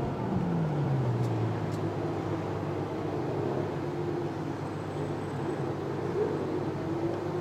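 Ferrari FF's V12 engine heard on board while driving: the revs fall over the first second or so, then it runs steady at a cruise with a slight rise in pitch near the end.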